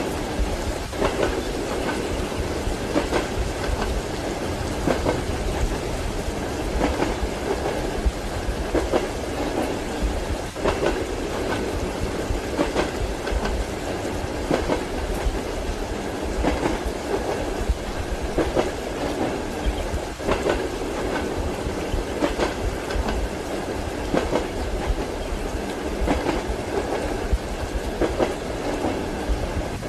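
Train wheels clacking over rail joints, heard from inside a passenger car. There is a sharp clack about every second or two over a steady rolling rumble.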